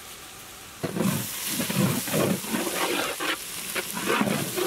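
Onion and spice-powder masala frying in oil in a large metal pan, sizzling in loud, uneven surges as a spatula stirs and scrapes it, starting about a second in after a faint steady hiss.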